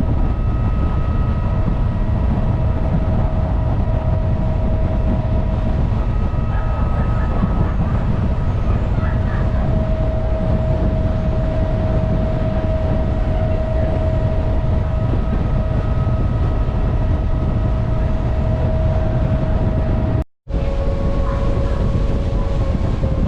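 Ferry engine running: a steady, loud low rumble with a constant hum over it. A brief dropout about twenty seconds in, after which the hum sits slightly lower.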